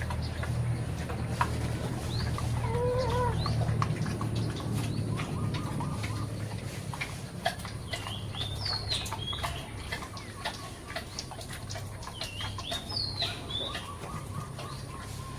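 Birds chirping in short bursts of calls over a steady low hum, with scattered clicks.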